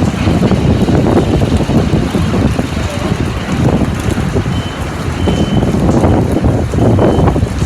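Wind buffeting the microphone: loud, uneven low noise that swells and dips with the gusts.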